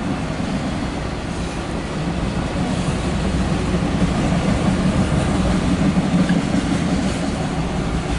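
Loaded autorack freight cars of a passing train rolling by on the track, a steady noise of steel wheels on rail.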